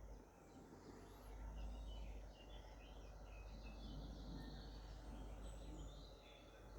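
Faint birdsong: several small birds chirping and twittering at once, over a steady low rumble.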